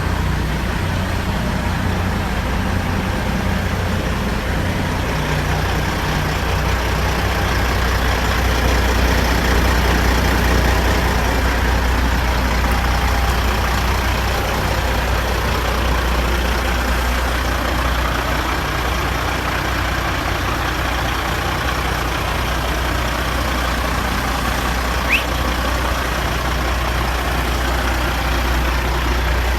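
Heavy diesel engine of a Kenworth W900 dump truck running steadily with a deep low drone, swelling slightly about a third of the way in. A brief high chirp sounds once near the end.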